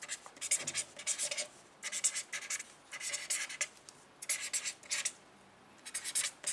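Handwriting: a pen scratching across a writing surface in a run of short strokes with brief pauses between them.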